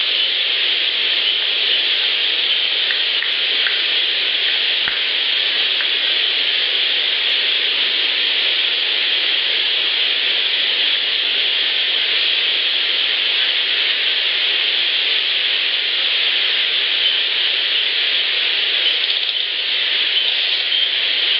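Amplified outdoor field-recorder playback: a loud, steady hiss with a few faint ticks and one sharp click about five seconds in. The clip is offered as an unexplained 'ratchet' sound, but no ratcheting pattern stands out above the hiss.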